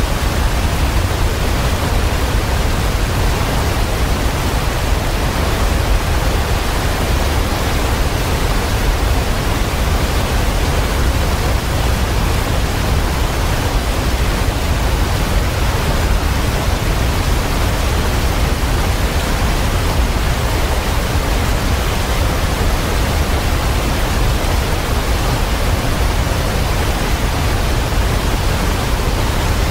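Waterfall pouring: a steady, unbroken rush of water, heaviest in the deep low end.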